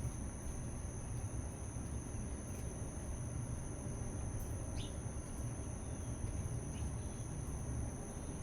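A few short bird chirps, each falling in pitch, about two and a half, five and seven seconds in. Under them run a steady low rumble and two steady high-pitched tones.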